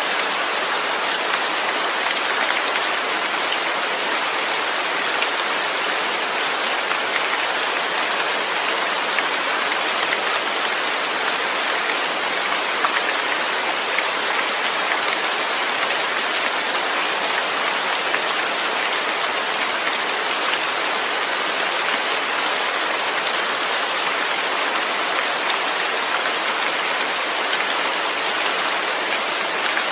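Steady, dense rain falling, an even hiss without pauses.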